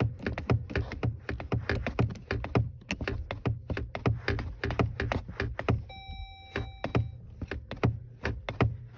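A van's starter cranking the engine over and over without it catching, in a fast, even rhythm of knocks over a low hum, while the gas pedal is pumped. A short, steady beep sounds just after six seconds in.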